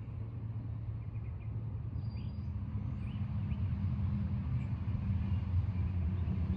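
Low rumble, slowly growing louder, with a few faint bird chirps above it.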